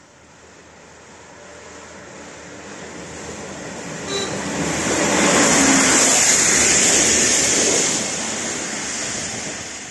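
A locomotive running through the station: the rumble and hiss of its wheels on the rails build as it approaches, peak about halfway through as it passes, then fade as it moves away.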